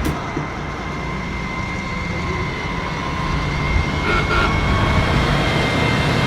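Steady background noise with a faint, steady high-pitched tone running through it, and a brief small sound about four seconds in.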